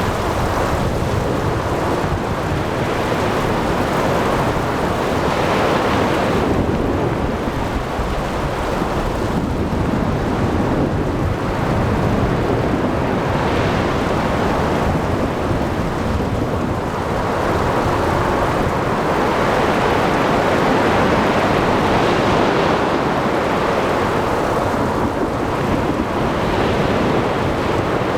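Storm at sea: ocean waves surging and breaking in slow swells every several seconds, over steady wind and rain.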